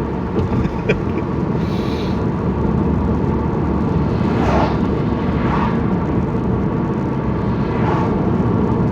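Steady road and engine noise heard inside a moving car's cabin, with a few brief swishes rising over it.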